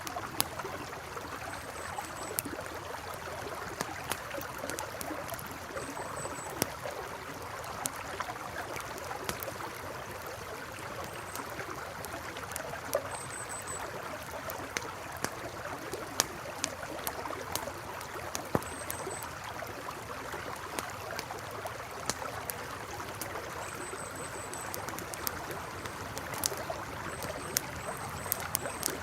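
Campfire crackling beside a steadily rushing river, with many sharp pops and snaps scattered over the even water sound. Short high chirps recur now and then.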